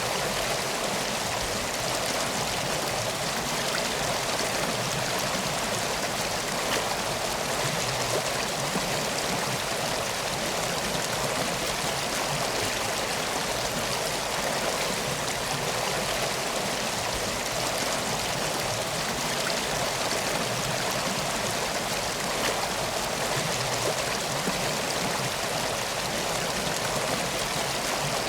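Steady rushing of flowing stream water, an even sound with no breaks or changes.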